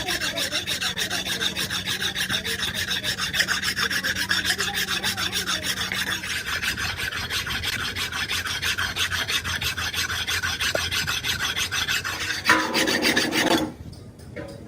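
Rapid back-and-forth rasping of a hand tool worked against metal, about five strokes a second and even in rhythm. It stops about twelve and a half seconds in, gives way to a brief different scraping, then drops to a short lull near the end.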